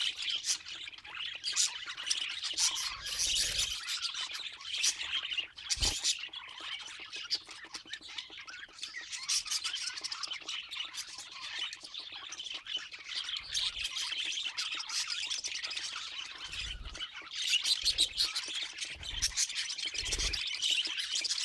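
Budgerigars chattering continuously, a dense mix of rapid chirps, warbles and squawks.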